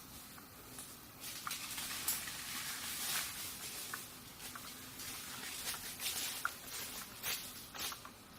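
Irregular rustling with light crackles and clicks, starting about a second in.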